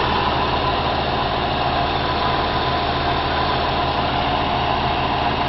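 Oldsmobile 307 V8 with a Rochester Quadrajet four-barrel carburettor idling steadily, at normal idle off the fast-idle cam, shortly after a cold start following five months of storage.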